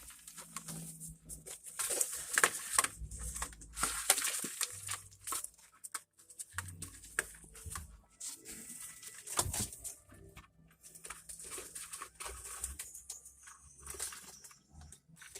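Irregular rustling, scraping and clicking, as of materials being handled, loudest about two to four seconds in, with a sharp knock near nine and a half seconds.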